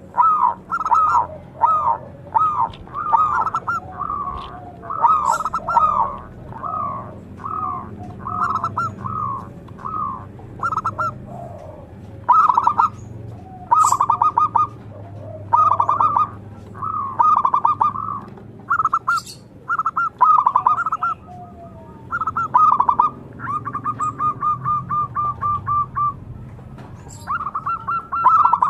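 Zebra doves (perkutut) singing: one short phrase after another of rapid, staccato cooing notes, with several phrases overlapping in the first few seconds. A few brief, sharp, high chirps cut in now and then.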